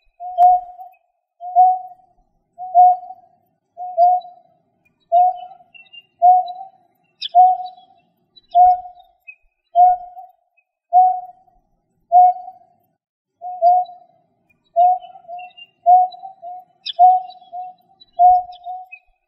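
A bird repeating one short, low hooting call note about once a second, in an even monotonous series, sometimes doubled into two quick notes; this is a recorded call used as a hunting lure. A few faint, higher chirps come in between.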